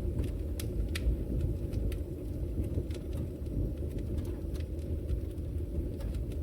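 Fire burning in a fireplace: a steady low rumble of flames with sparse, sharp crackles and pops, about one a second.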